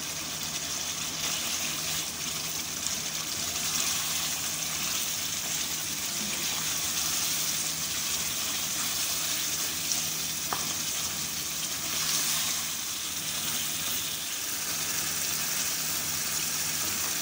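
Chicken karahi sizzling steadily in oil in the pan over high heat, the masala being fried down once the oil has separated. A low steady hum runs beneath, and there is a single light tick about ten seconds in.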